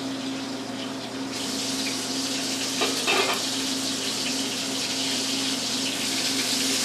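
Water running from a kitchen tap, turned on suddenly about a second and a half in and then running steadily, with a couple of brief knocks near the middle. A steady low hum runs underneath.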